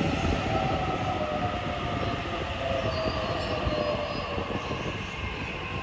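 Sydney Trains double-deck electric train running away over the rails, a steady wheel rumble with a high thin whine that slides slowly lower in pitch. The sound eases off towards the end as the train pulls away.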